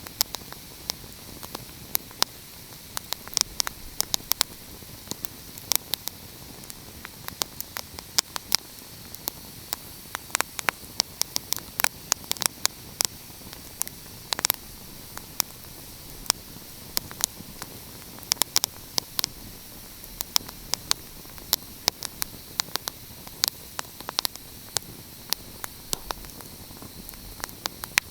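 Wood fire crackling: irregular sharp pops and snaps, several a second, over a steady hiss.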